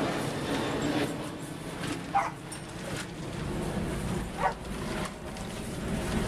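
A dog barking twice, two short barks a little over two seconds apart, over a steady background noise.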